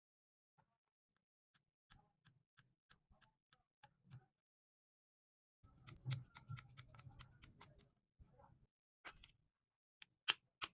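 Faint, sparse clicks and taps, about three a second for a couple of seconds, then a short low scraping rustle, and one sharper click near the end.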